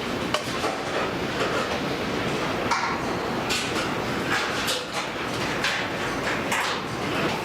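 Car-factory production-line machinery running: a steady mechanical din with short sharp clanks every second or so.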